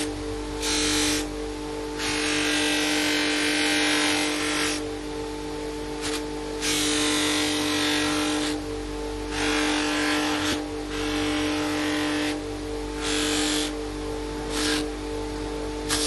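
Small electric power tool running with a steady hum, grinding or sanding a bone saddle in repeated passes: a hiss swells each time the bone meets the abrasive, about eight passes of one to three seconds each.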